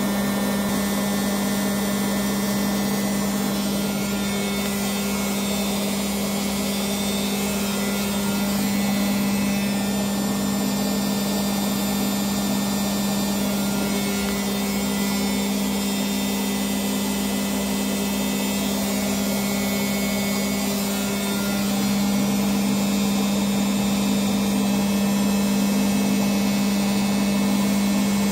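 Haier HW60-10636A narrow front-loading washing machine on its 1000 rpm spin cycle, the drum spinning at a steady speed: a strong, even hum with a whirring rush over it.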